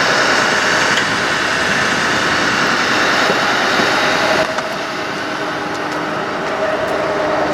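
2009 Ford F-550 bucket truck running. A loud, even rushing noise over the engine cuts off sharply about four and a half seconds in, and a steady whine comes in near the end.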